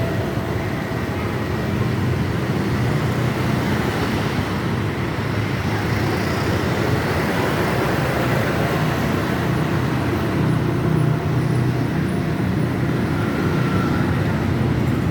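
Steady road-vehicle noise: an engine hum under a continuous hiss of road and traffic noise.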